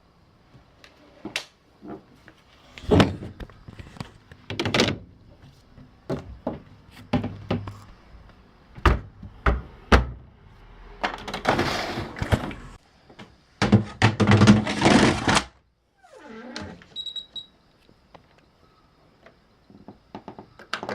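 Irregular knocks and thunks, with two longer stretches of noise lasting a second or so each, about halfway through and again a few seconds later.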